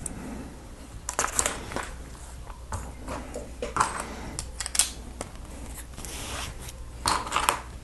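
Plastic Lego pieces clicking and rattling as they are handled and pressed together, in a few short irregular bunches of clicks and rustles.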